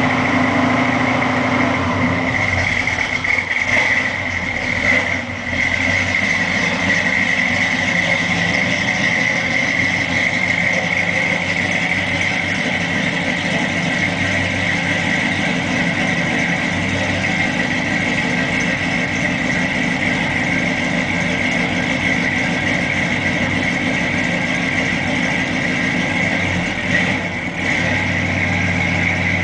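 1969 Ford Fairlane 500's engine idling steadily, with two brief dips in loudness.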